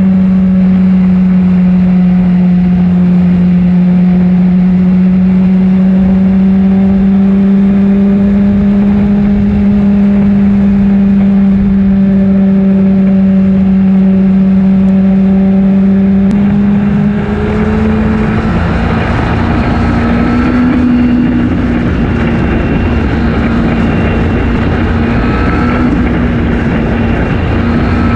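Honda CBR600RR inline-four motorcycle engine running at a steady, even note while riding. About 17 s in the pitch steps up slightly and wind rush grows louder over the engine.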